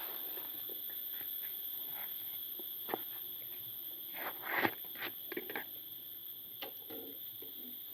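Scattered light clicks and scrapes of a utensil handling food in a frying pan, loudest about halfway through. Behind them runs a steady high-pitched drone of forest insects.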